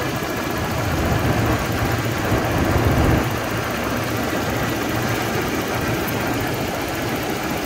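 Toyota 3.0 L V6 engine idling steadily, heard from under the open hood.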